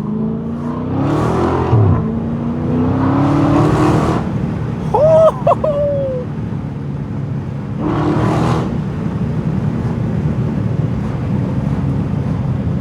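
Straight-piped 2020 Dodge Charger Scat Pack's 6.4-litre HEMI V8 accelerating, its pitch climbing twice in the first few seconds, then running on steadily, with three short rushes of noise along the way.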